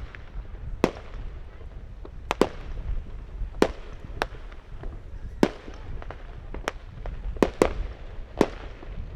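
Firecrackers going off in the neighbourhood: sharp single bangs at irregular intervals, roughly one a second, some in quick pairs.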